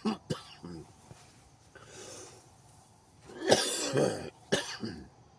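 A man coughing and clearing his throat in short bursts, the loudest cough about three and a half seconds in.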